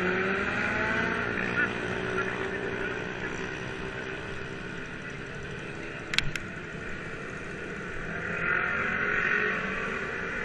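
Motorcycle engine running while riding, with wind and road noise; the engine pitch rises and falls. Two sharp clicks about six seconds in.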